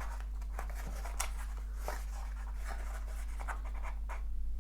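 Faint scratching, rustling and light clicks of accessories and packaging being handled, over a steady low hum.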